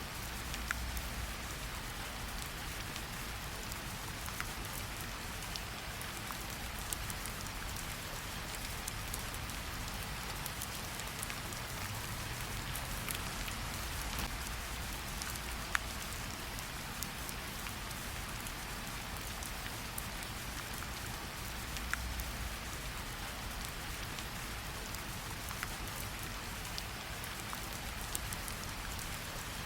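Steady light rain pattering on tree leaves, with scattered individual drops ticking louder now and then.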